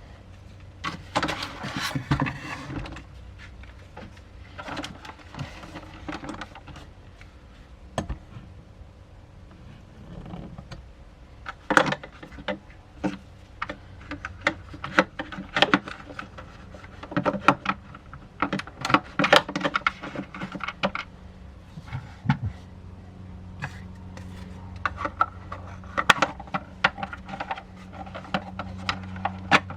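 Huina 1593 RC excavator working: the hum of its small electric motors under repeated sharp clicks and clatter from its moving parts. The motor hum grows louder and steadier about two-thirds of the way through.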